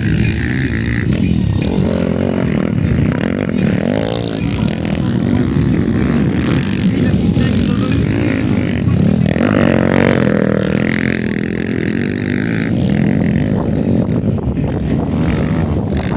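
Motocross bike engines revving on the track, with the pitch rising and falling as bikes accelerate and pass, most clearly about four seconds in and again about ten seconds in.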